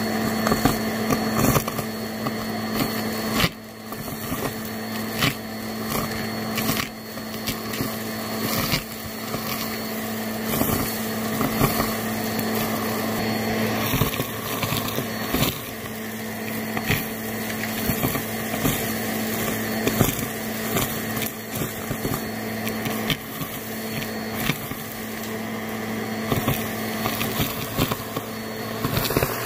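Shark Helix vacuum cleaner running steadily while picking up a mix of carpet powder and small debris, with frequent irregular clicks and rattles as pieces are sucked up.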